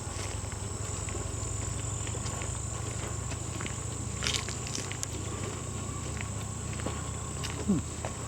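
Steady high-pitched drone of an insect chorus, such as crickets, with scattered soft clicks of footsteps on a trail.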